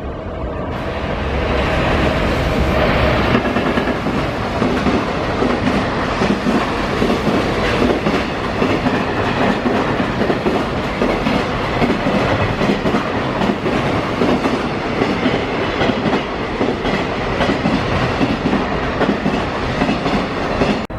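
Freight train passing close by at speed: a steady, loud rumble of rolling wagons with a continuous clickety-clack of wheels over rail joints. It builds up over the first second or two, then holds.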